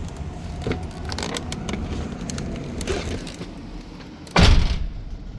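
Scattered clicks and rustling from handling things inside a truck cab, over a low steady hum. A single loud, short thump comes about four seconds in.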